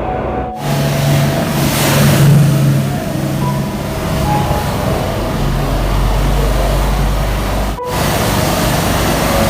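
A motor vehicle's engine running under a loud, steady rushing noise, with abrupt breaks about half a second in and near the end where one recording cuts to another.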